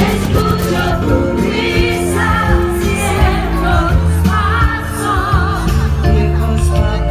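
Live pop music: a singer holds wavering, vibrato notes over a band's steady accompaniment.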